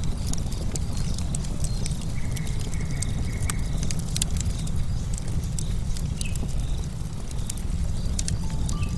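Campfire logs crackling and popping in sharp irregular snaps over a steady low rumble, with a bird whistling a held note midway and short calls near the end.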